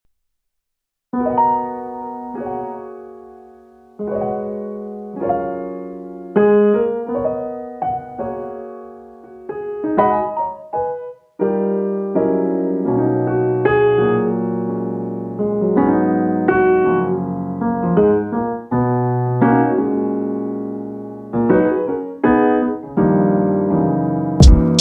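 Solo piano music: slow struck chords that ring and fade, with drum beats coming in right at the end.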